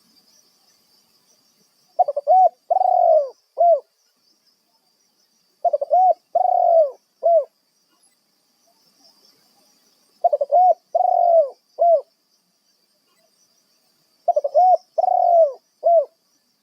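Spotted dove (tekukur) cooing its song four times, about every four seconds: each phrase has a couple of quick notes, a longer rolling coo and one short closing note.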